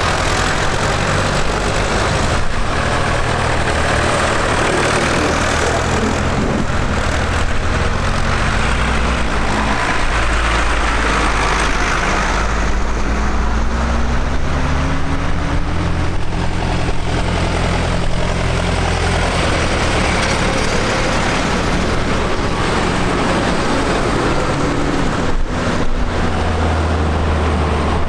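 Diesel tractor engines running steadily as tractors move along, with one engine's pitch rising and then falling about halfway through.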